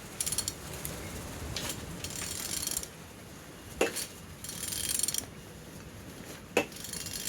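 Suzuki M15A engine being turned over by hand with a ratchet wrench: several rasping ratchet strokes and two sharp clicks as the crankshaft is rotated. The engine turns freely.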